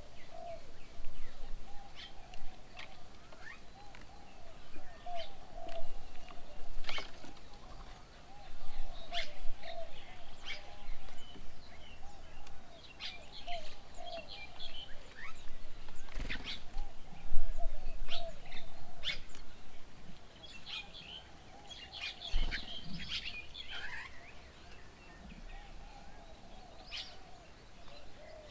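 Several small birds chirping and calling at a garden bird table, in short, irregular high chirps with some sharp ticks among them. A steady, wavering lower hum runs beneath.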